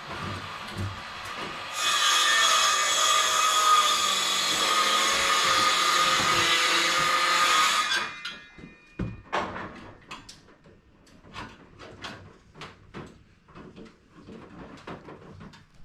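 A handheld power tool runs steadily for about six seconds, then stops. A string of light knocks and clicks follows.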